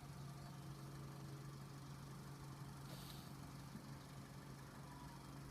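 Faint, steady low hum of an idling engine, with a brief faint hiss about three seconds in.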